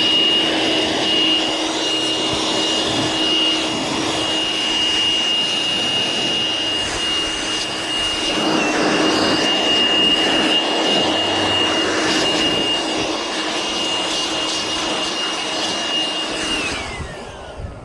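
A small electric motor runs at a steady speed with a high-pitched whine over a loud rush of air, then winds down with falling pitch near the end.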